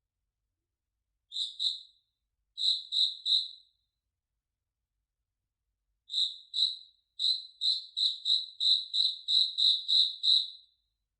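A cricket chirping at one high pitch: pairs and triplets of short chirps with pauses between, then a quicker run of about a dozen chirps in the second half. Dead silence between the chirps.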